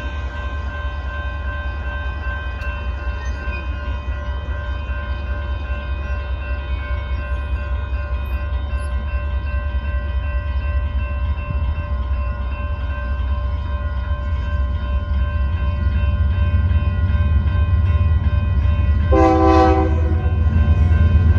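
Diesel train approaching, its low rumble growing steadily louder, over a steady high-pitched tone, with a short horn blast near the end.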